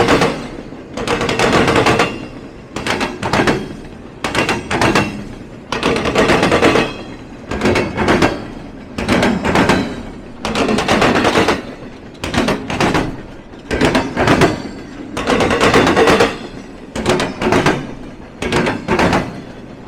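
Train wheels clattering over a railroad diamond crossing: a rapid, repeating series of loud metallic bangs in clusters about a second apart as the cars' trucks hit the crossing.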